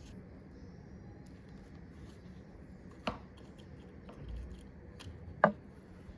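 Small hand-tool clicks and taps on an iPhone XR housing during battery removal: a light click about three seconds in and a sharper, louder one at about five and a half seconds, over a faint steady hiss.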